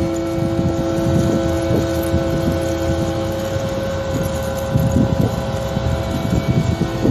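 A machine's engine running steadily with a droning hum of several held tones, the lowest dropping away about halfway through, over gusty low rumbling that sounds like wind on the microphone.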